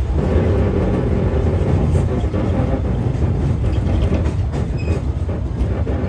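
Disneyland Railroad steam train running along the track: a steady low rumble of wheels on the rails.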